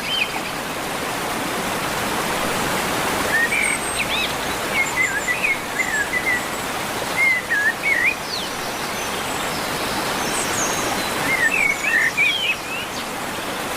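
A songbird sings in short phrases of quick, curving whistled chirps: one run from about three to eight seconds in and another near the end. A steady rushing noise runs underneath.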